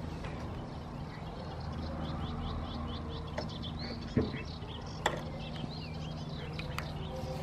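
2011 Harley-Davidson Forty-Eight's 1200 cc air-cooled V-twin idling steadily through its handmade exhaust, with birds chirping. A short thump about four seconds in and a click a second later.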